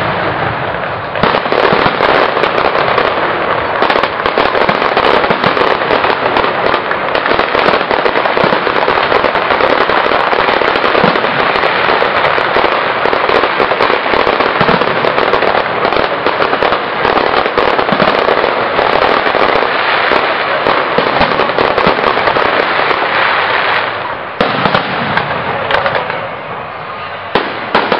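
Fireworks display: a long, dense barrage of crackling and bangs from aerial shells bursting overhead. It eases off about 24 seconds in to quieter, scattered bangs.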